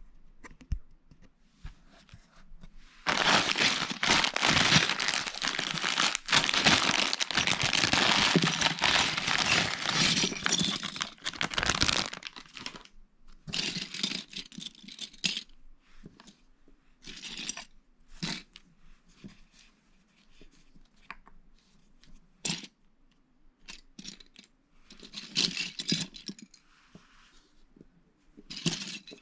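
Crinkling of a plastic Lego parts bag for about nine seconds, starting about three seconds in, followed by scattered clicks and rattles of small plastic Lego bricks being handled.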